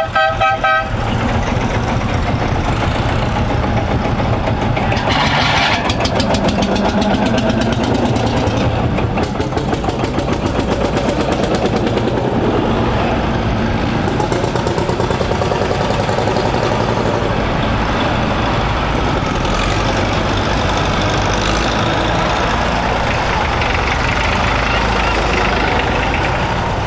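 A crowd of vintage tractor engines running and idling together as they are fired up, with the sound swelling and pulsing as engines are started and revved. A brief pitched tone sounds right at the start.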